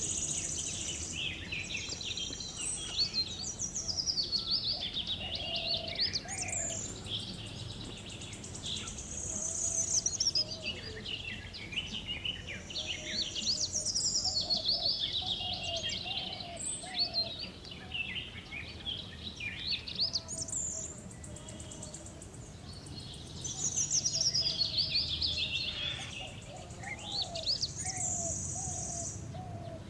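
Songbirds chirping and twittering in repeated bouts of rapid high notes that cascade downward in pitch, each lasting a few seconds, with fainter lower calls between them.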